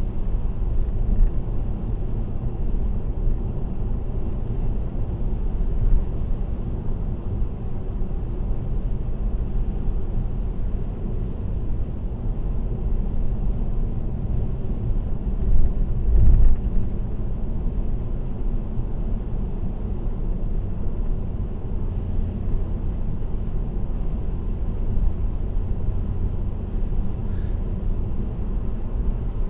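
Steady low road rumble and tyre noise of a car cruising on an expressway, with a brief louder low bump about halfway through.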